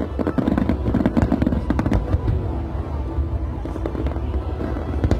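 Fireworks display: many shells bursting in quick, irregular succession over a constant low rumble.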